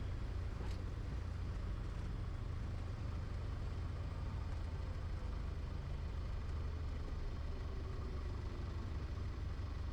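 Piper Tomahawk's four-cylinder Lycoming engine running steadily, a low even drone with no change in power.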